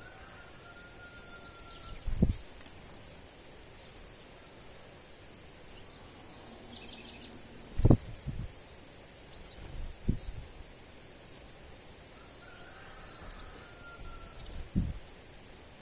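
Small birds calling outdoors in short, sharp, high chirps, with a quick trill near the middle. A few low thumps fall between the calls, the loudest about eight seconds in.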